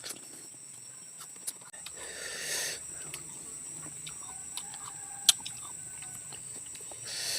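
Close-miked eating of raw fruit: chewing with scattered sharp crunches, the loudest about five seconds in.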